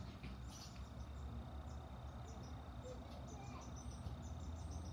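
Faint outdoor ambience: scattered short, high chirps from small birds over a low, steady rumble.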